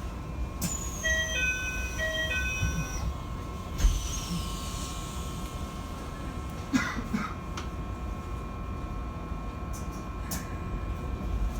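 Inside a Keikyu 1000 series train car standing at a platform: a short electronic chime of a few notes plays twice, then the doors shut with a thump and a falling hiss of air, and the car waits with a steady electrical hum and a low rumble.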